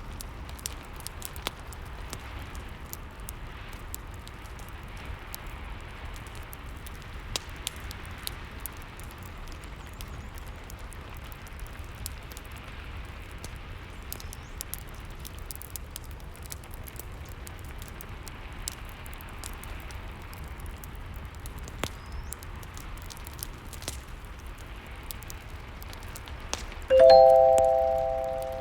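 Steady rain with a crackling fireplace, its pops heard as scattered sharp clicks. Near the end a loud multi-tone chime rings once and fades over about a second and a half: the timer marking the end of the 50-minute study session.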